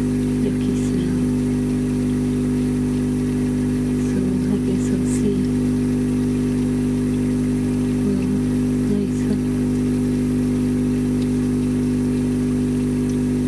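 Ozonator (ozone generator) running with a steady electrical hum that stays even, with a few faint small noises over it.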